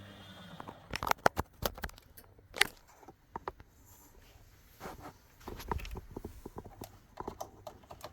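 Hoover WDYNS654D washer-dryer mid-wash: a steady low hum stops about a second in, giving way to a run of irregular clicks, knocks and short squeaks from inside the machine.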